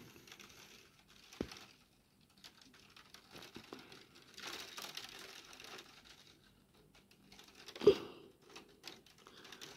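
Rain heard faintly as an uneven patter and crackle, swelling briefly about halfway through. A sharp knock comes about a second and a half in, and a louder thump near the end.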